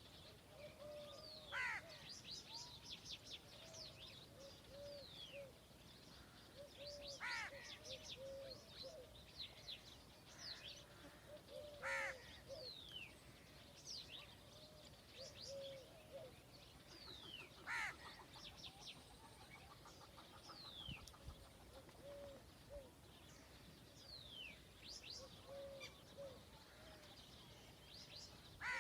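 Several wild birds calling together: many quick, high, falling chirps, a louder sweeping call about every five seconds, and a low short note repeated throughout. It is faint overall.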